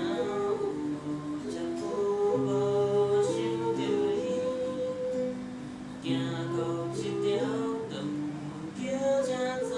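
Slow acoustic guitar accompaniment, fingerpicked in broken chords, with a gentle melody of longer held notes over it.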